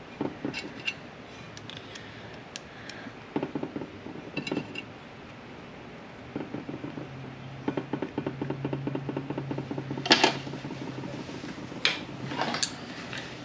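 Metal parts of a manual-transmission shift tower clinking and knocking as they are handled. Midway a small motor hums for about four seconds with a fast ticking over it.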